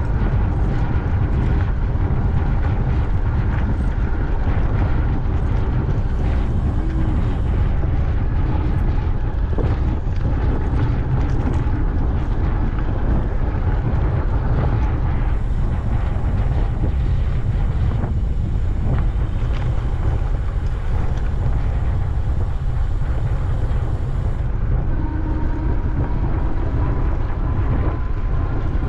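Wind buffeting the microphone of a camera on a moving bicycle: a steady, loud low rumble with road and riding noise above it.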